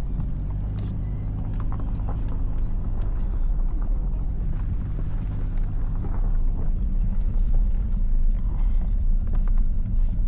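Car engine running slowly, heard inside the cabin, with a steady low hum. About halfway through it gives way to a louder, rougher rumble, with scattered faint clicks throughout.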